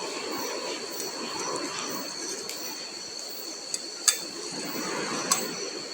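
Knife sawing around the top of a crusty bread loaf to cut out its lid, a steady scratchy rasp with a few light clicks in the second half.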